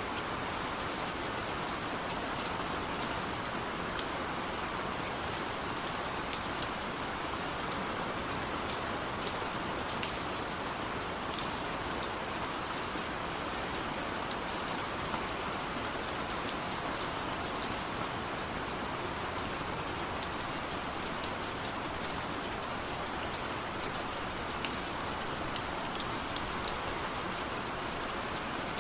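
Steady heavy rain falling, with many small sharp drop ticks over an even hiss.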